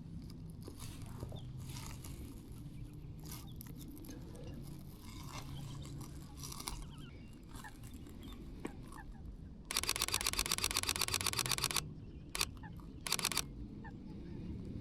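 Sony A6700's mechanical shutter firing a rapid burst of evenly spaced clicks for about two seconds, then one single frame and a short second burst. Birds call faintly throughout.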